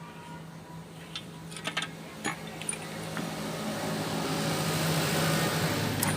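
Workshop noise: a steady low hum with a few sharp clicks and knocks in the first half, then a rushing mechanical noise that grows louder over the last few seconds and stops abruptly.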